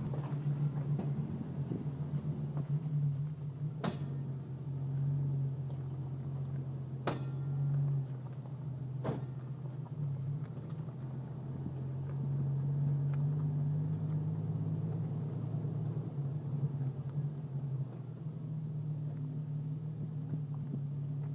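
A Jeep rolling at low speed, its engine a steady low hum, with sharp metallic pops from the vehicle: one about four seconds in, another about three seconds later, and a fainter one about two seconds after that. The cause of the pops is not known.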